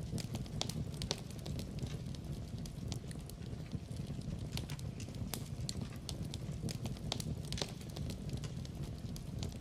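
Wood fire burning in a fireplace: a steady low rumble of flame with frequent irregular crackles and sharp pops.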